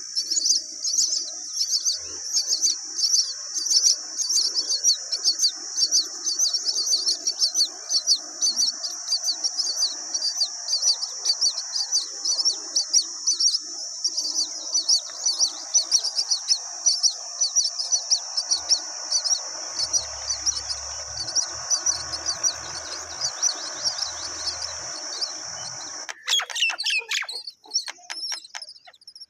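Many small birds chirping in a dense, continuous, high-pitched chorus over a lower background din. About 26 seconds in it cuts abruptly to sparser, separate chirps.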